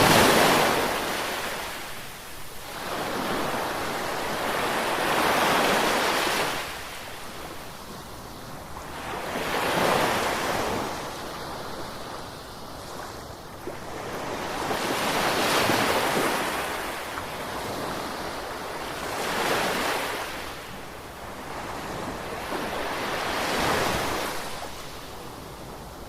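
Ocean waves breaking and washing on a shore, each surge swelling and fading about every four to five seconds.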